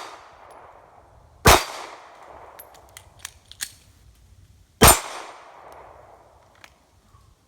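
Two pistol shots from a Glock 42 .380, about three seconds apart, each trailing off in a long echo. A few light clicks fall between them.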